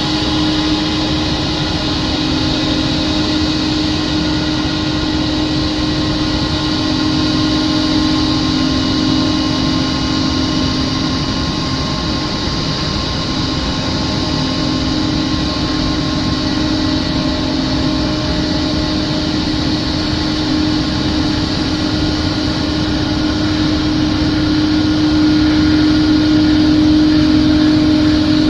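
Jet airliner engines running steadily at low power, a constant rushing hum with a few steady whining tones, growing slightly louder near the end.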